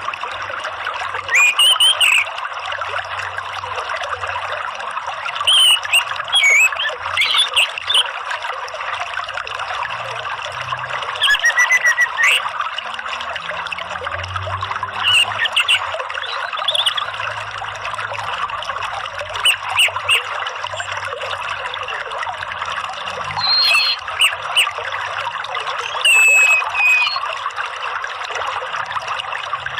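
Steady running, trickling water with short bird chirps and whistles breaking in over it in small clusters every few seconds.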